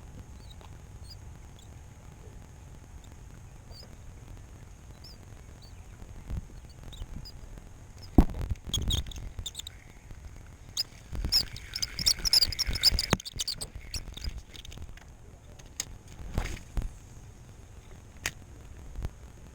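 A quiet stretch, then a run of sharp knocks and clatter about eight seconds in. A busy burst of rattling comes a few seconds later, followed by a few more single knocks near the end.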